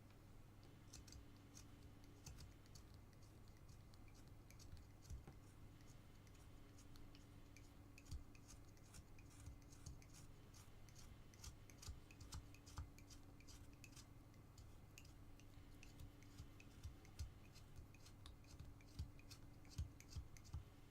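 Carving knife paring small chips from basswood: faint, irregular snicks and short scrapes, a few a second, over a steady low hum.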